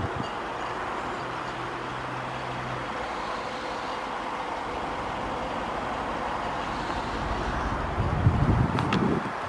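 Steady outdoor background noise, with wind buffeting the microphone in a low rumble about eight seconds in.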